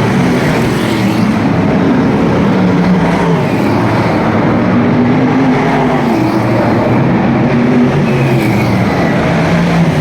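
Several V8 stock car engines running hard together around an oval, pitches rising and falling as the cars lap.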